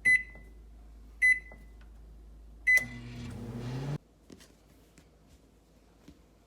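Microwave oven keypad beeping three times as a cooking time is keyed in and started, and the oven starting up with a low hum that cuts off abruptly about a second later.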